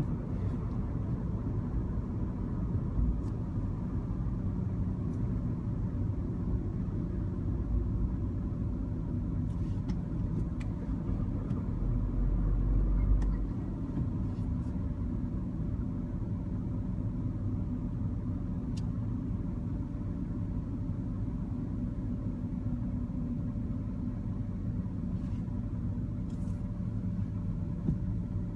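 A manual MINI Cooper being driven, its engine and road noise making a steady low rumble. It grows louder and deeper for about a second and a half near the middle.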